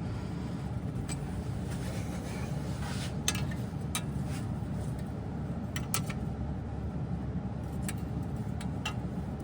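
Steady low background rumble with a few sharp, separate metal clicks and knocks as parts and tools are handled during exhaust manifold removal.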